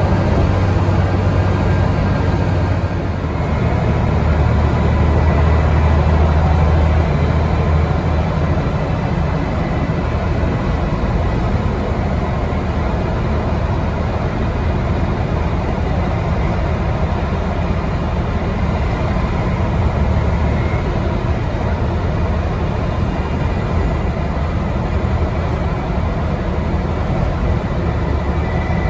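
Scania N94UD double-decker bus's diesel engine and ZF gearbox, heard on board, running hard at sustained speed. There is a brief dip in level about three seconds in, then it pulls louder for a few seconds before settling steady.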